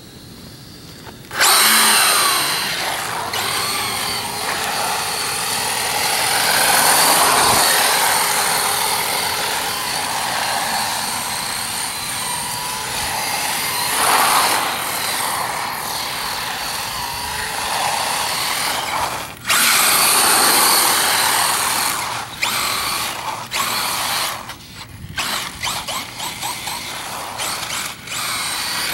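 Electric drive motor of a 1/10 scale 4WD RC short course truck whining as it drives, its pitch rising and falling with the throttle. It runs steadily from about a second in, stops briefly around two-thirds of the way through, then comes in short stop-start bursts near the end.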